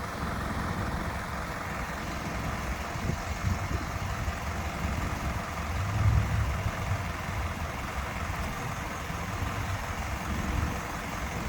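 2014 Isuzu NRR dump truck's diesel engine idling with a steady low rumble, swelling briefly about six seconds in. The hydraulic lift lowering the dump body is not heard over the engine.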